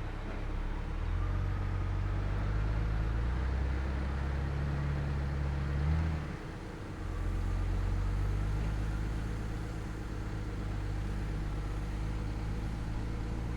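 Heavy diesel engine running under load, its pitch climbing in steps for about six seconds, dropping suddenly, then running steadier.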